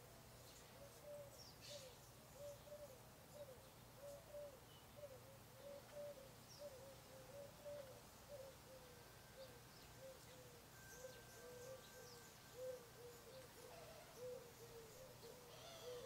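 Low, hooting bird calls repeated steadily, about two to three short notes a second, with a few faint high chirps now and then.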